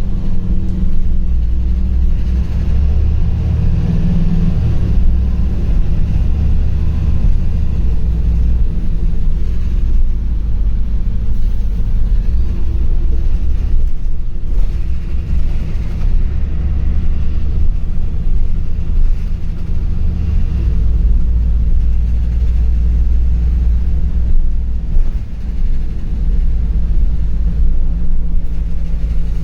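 LiAZ 5292.65 city bus heard from inside while driving: a steady low engine and road rumble whose engine note shifts a few times as the bus speeds up and slows.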